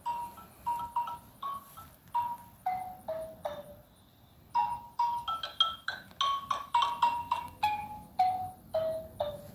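Xylophone being played: single struck notes that ring briefly, with short falling runs down the scale. After a brief pause near the middle, the notes come quicker before another falling run.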